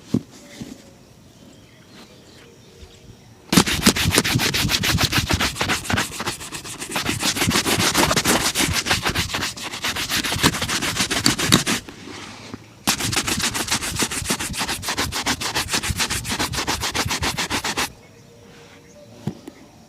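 Shoe being buffed with a shoe-shine brush in rapid back-and-forth strokes, in two long spells with a short pause between.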